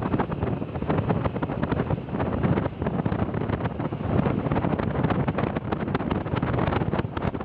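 Wind buffeting the microphone while travelling, over the steady running noise of a vehicle.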